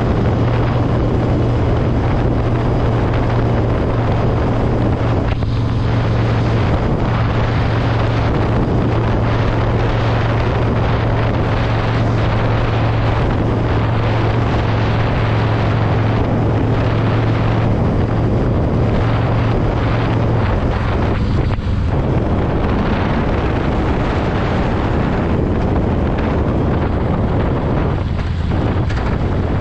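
Yamaha V Star 1100's air-cooled V-twin engine running steadily while the motorcycle is under way, with wind buffeting the microphone. About two-thirds of the way through, the engine note shifts lower.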